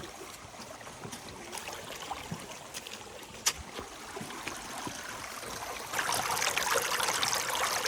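Rushing water of a jungle river and waterfall, a steady rush that gets markedly louder about six seconds in, with a few sharp clicks over it.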